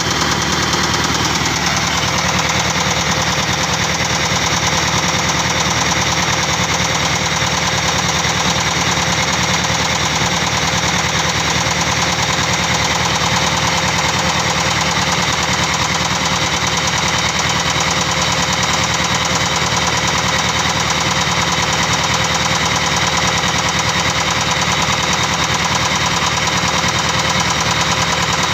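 Diesel engine running steadily with a fast, even knocking, a rough and noisy running sound.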